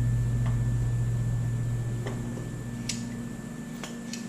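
A steady low hum that slowly fades, with a few light clicks and taps scattered through it.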